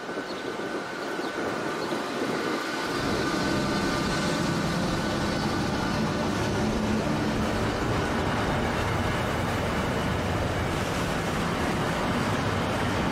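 SNCF BB 26000-class (Sybic) electric locomotive hauling a freight train through a station close by. A steady high whine as it approaches, then from about three seconds in a loud, steady rumble and rolling clatter of the locomotive and wagons passing on the rails.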